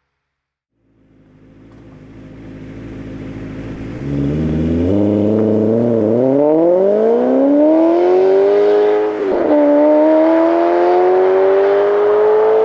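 Maserati Quattroporte engine and exhaust under acceleration. The note swells in and grows louder, then climbs steadily in pitch, drops sharply at an upshift about nine seconds in, and climbs again.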